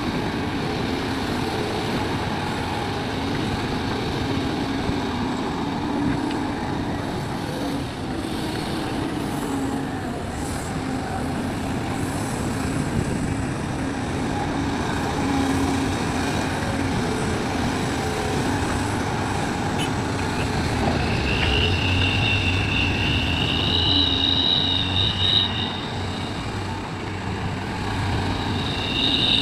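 Heavy diesel machinery running steadily: a large excavator's engine working as it loads soil into a dump truck. About two-thirds of the way through, the engine note deepens and grows louder as if under load, and a high-pitched two-tone squeal sounds for a few seconds, then again near the end.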